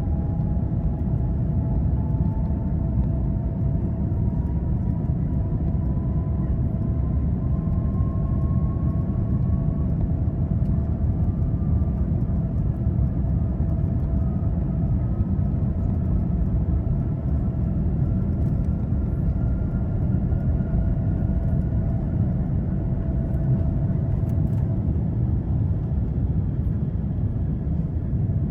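Boeing 787-9 cabin noise: a steady low rumble from the GE GEnx engines and airframe. Above it, a whine rises slowly and evenly in pitch through most of the stretch, and a second steady tone fades out near the end.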